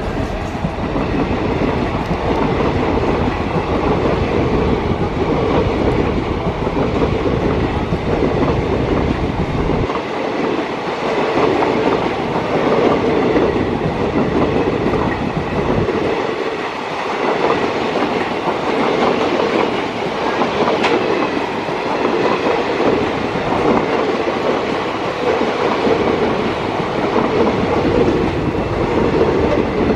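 Electric-hauled passenger express train running at speed: a steady rumble of wheels on rails with clickety-clack over the rail joints.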